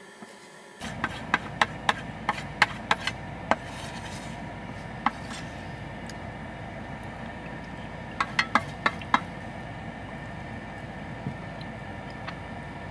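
A steady background hum that starts suddenly about a second in, with a run of sharp knocks or taps over it: about nine quick ones in the first few seconds, a single one, then a cluster of five near the middle.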